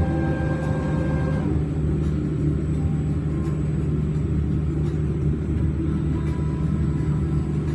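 Steady low hum and rumble inside a tourist submarine's passenger cabin, from its motors and machinery running underwater. Higher tones over it stop about a second and a half in.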